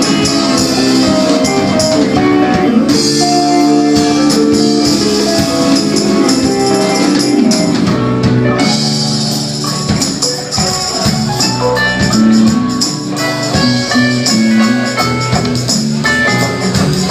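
Live band music: an instrumental passage of pitched notes over constant bright, high percussion.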